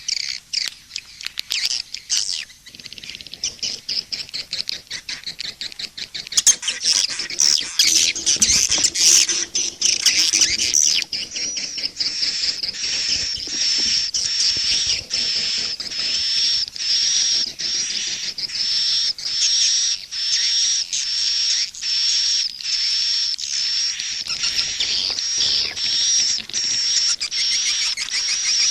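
Recorded swiftlet calls of the kind played to lure swiftlets into a nesting house: dense high twittering chirps, giving way about twelve seconds in to a steadily repeated high chirp, roughly two a second.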